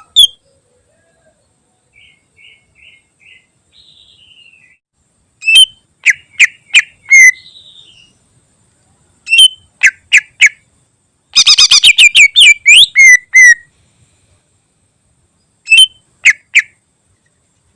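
Greater green leafbird (cucak ijo) singing: groups of loud, sharp whistled notes broken by pauses, with a fast rattling trill run about halfway through. Softer, quieter notes come early on. The song includes notes copied from other birds.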